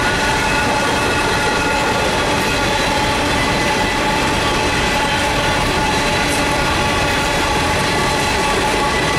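Empty coal hopper cars of a freight train rolling past close by: a steady, unbroken rumble of steel wheels on the rails with several steady high tones ringing over it.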